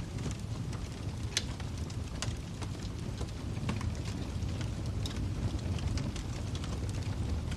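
Fire crackling in a fireplace: a steady low rumble of flames with scattered sharp pops and snaps. One louder pop comes about one and a half seconds in.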